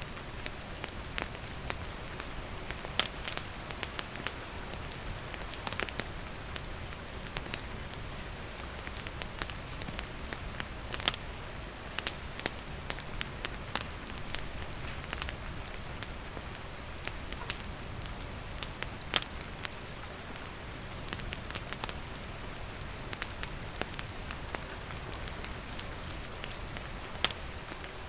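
Steady rain hiss mixed with a campfire's wood crackling: sharp irregular pops and snaps over the rain, a few of them louder.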